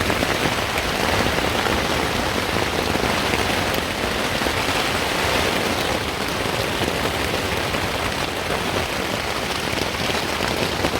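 Heavy rain pelting a tent, heard from inside: a dense, steady hiss of drops on the fabric.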